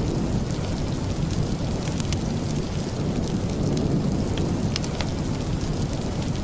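Steady rain: an even hiss with a low rumbling undertone, dotted with scattered sharp ticks.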